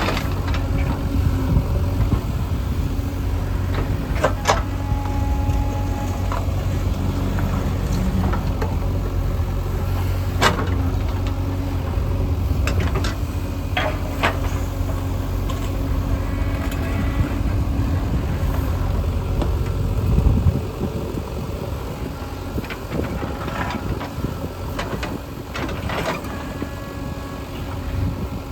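Heavy diesel engine of construction machinery running steadily, with a few sharp metallic knocks. About two-thirds of the way through, the engine note drops and gets quieter.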